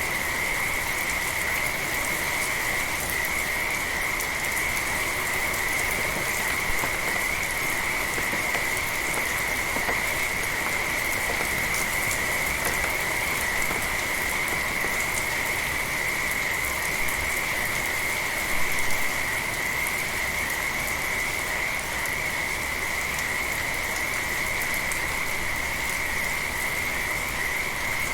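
Frogs calling in a steady, unbroken chorus at one high pitch, over the even hiss of rain falling.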